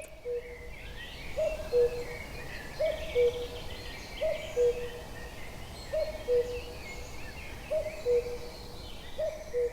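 Male common cuckoo singing its two-note "cuck-oo", a higher note falling to a lower one, repeated evenly about every second and a half. Other small birds chirp faintly behind it.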